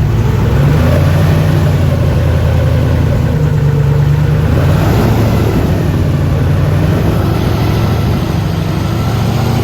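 Airboat engine and propeller running steadily and loudly, the engine note shifting slightly up and down as the throttle changes.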